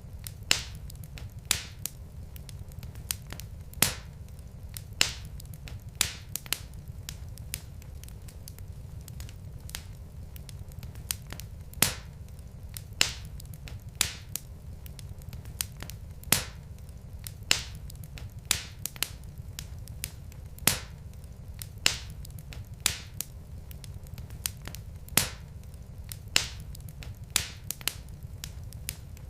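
Log fire in a fireplace crackling: sharp, irregularly spaced pops, about one a second, over a low steady rumble.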